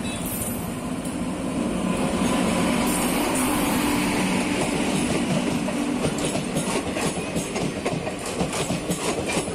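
Indian Railways passenger train, hauled by an electric locomotive, passing close by: a steady rolling rumble with a low hum, then the coach wheels clacking over the rail joints in a quick series of clicks through the second half.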